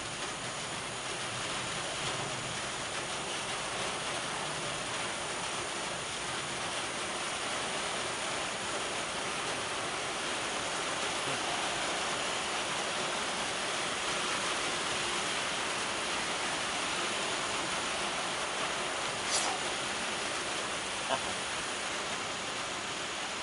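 Steady rain falling, an even hiss that holds throughout, with two short clicks near the end.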